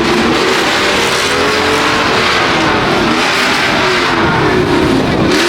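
Car engines revving, their pitch rising and falling, over a loud steady rush of noise.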